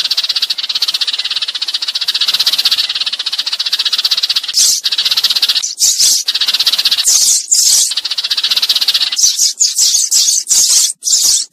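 Sparrow calls used as a lure: a fast, even chattering rattle for the first four seconds or so, then short high chirps and quicker chatter.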